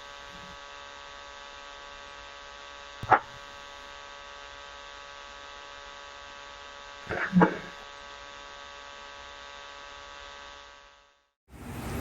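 A steady electrical-sounding hum made of many even tones, with a short sharp click about three seconds in and a brief, voice-like sound about seven seconds in. It fades out near the end and gives way to road traffic noise.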